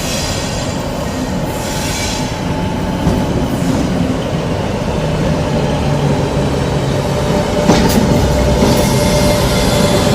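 Freight train hauled by Class 86 electric locomotives passing close by, its wheels rolling steadily on the rails and growing louder toward the end, with one sharp click about eight seconds in.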